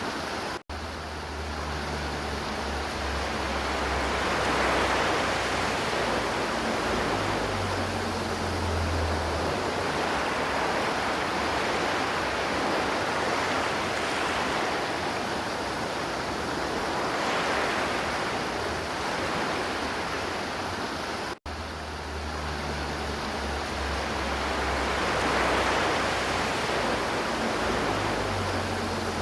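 River water flowing: a steady rushing sound that slowly swells and eases. It cuts out for a split second twice, once right at the start and once about two-thirds of the way through, after which the same stretch of flow repeats.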